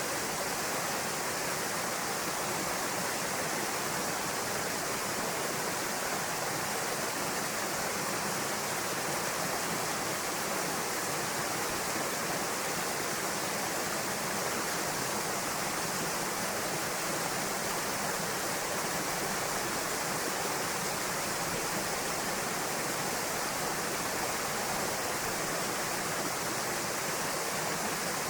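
Waterfall pouring into a pool: a steady, even rush of falling water with no breaks or changes.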